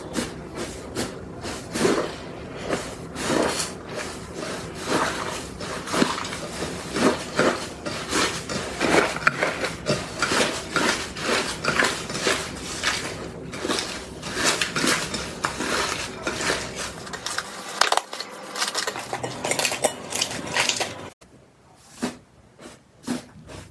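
Slime being squeezed and poked by hand, making a dense run of sharp clicks and small pops. About 21 seconds in it cuts to quieter, sparser clicks.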